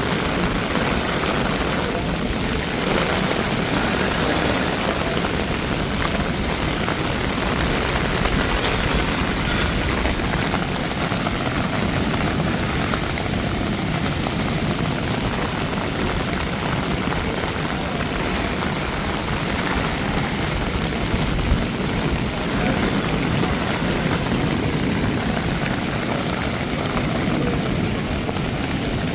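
Heavy rain falling steadily on hard surfaces, a continuous even hiss with no letup.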